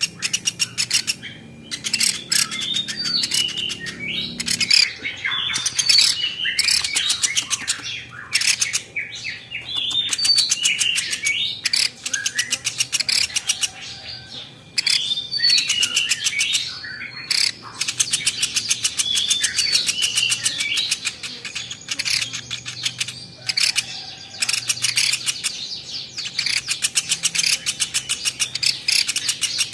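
Platuk beras bird calling: a continuous run of rapid sharp chips, chattering trills and quick chirps, with only brief gaps.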